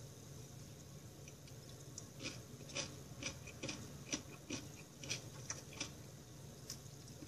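Close-up chewing of food, wet crunches about two a second starting about two seconds in, over a faint steady room hum.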